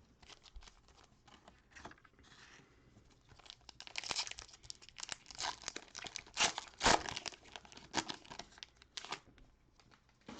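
Cellophane wrapper of a cello pack of trading cards being torn open and crinkled: scattered crackles at first, then a dense run of crinkling from about four seconds in, loudest near seven seconds, dying away near the end.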